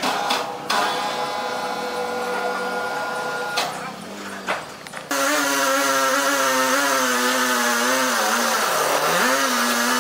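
Power saw cutting wood. A steady machine whine gives way about halfway through to a louder pitched drone that wavers and dips in pitch near the end as the saw is loaded, then recovers.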